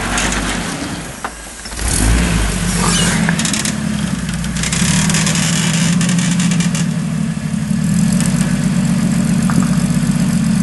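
Off-road vehicle's engine under throttle on a wet rock ledge. It drops off about a second in, picks up again near two seconds and then runs steadily and louder. A rough hiss lies over the engine for a few seconds after it picks up.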